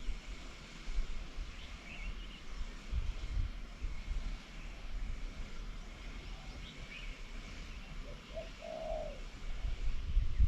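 Birds calling: scattered short, high chirps, and near the end a dove cooing low, two short notes then a longer one.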